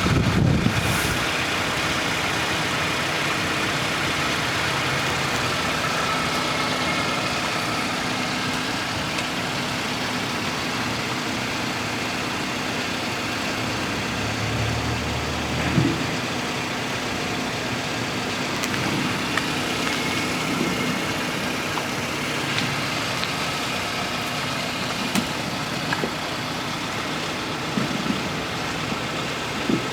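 2007 Toyota Matrix's 1.8-litre four-cylinder engine idling steadily, with a few faint knocks and a low thump about halfway through.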